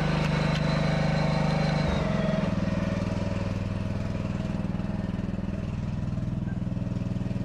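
Small riding-tractor engine running steadily, its note dropping and settling about two seconds in, as if taking up load while pulling a tractor that won't start.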